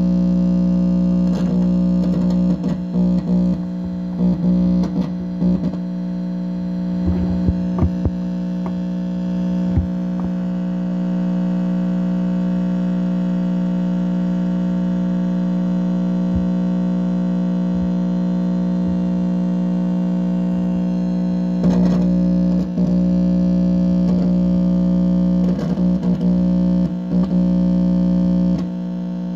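Electrical interference played through an amplifier speaker: a steady, loud buzz with many overtones, broken by irregular distorted crackling bursts in the first third and again near the end. The owner takes it for directed-energy signals beamed from a neighbour's house.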